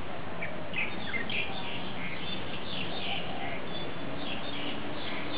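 Birds chirping: short high notes repeated many times, over a steady background noise.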